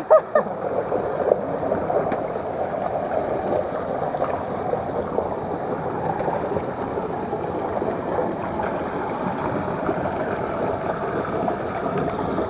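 Stream water rushing steadily down a waterfall.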